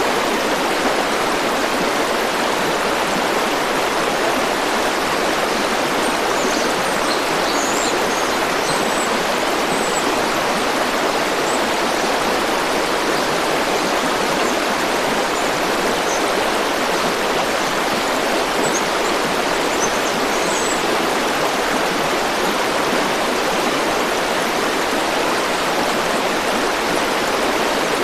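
A river or stream flowing steadily, a continuous even rush of water. A few faint, short high chirps come and go over it, mostly in the first half.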